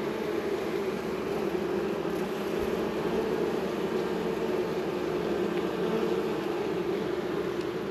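Honey bees from an open hive buzzing in a steady, even hum.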